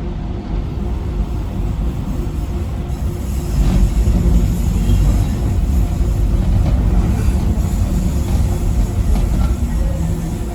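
Docklands Light Railway train running along the track: a steady low rumble of wheels on rail, which grows louder with more rattle and hiss about three and a half seconds in.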